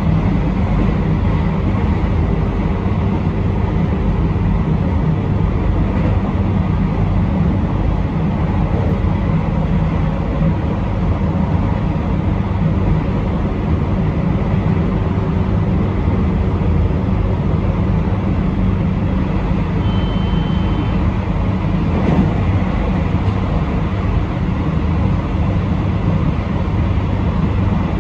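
Train running steadily along the line, heard from the driver's cab: a constant low rumble of wheels and running gear with a steady hum. A brief high-pitched tone sounds about two-thirds of the way through.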